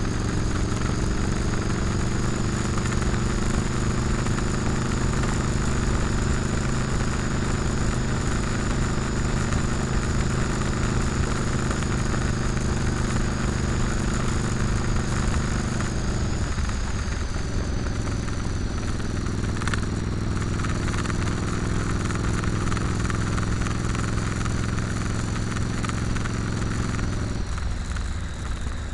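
Motorcycle engine running at a steady road speed while riding. The engine note briefly breaks and drops twice, about halfway through and near the end.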